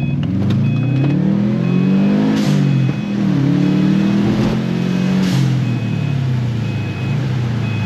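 Subaru WRX's turbocharged flat-four engine accelerating hard through the gears. Its pitch climbs, drops at each gear change and climbs again. A two-tone warning chime beeps steadily throughout.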